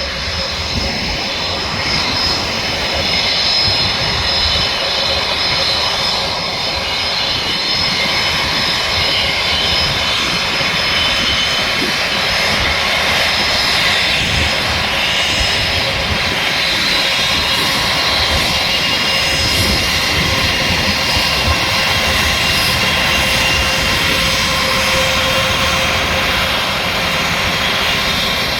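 Airbus A320's turbofan jet engines running, a loud, steady rushing noise with a constant high-pitched whine.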